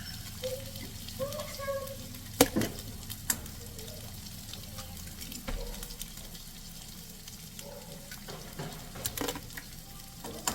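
Eggs with chorizo frying in a pan: a steady sizzle, with a cooking utensil stirring and knocking against the pan a few times.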